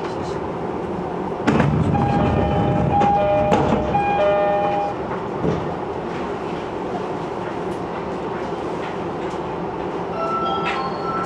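Running noise inside an E231-series commuter train: a steady rumble that suddenly grows louder about a second and a half in for a few seconds, with steady high tones sounding through that stretch. Several more steady tones come in near the end.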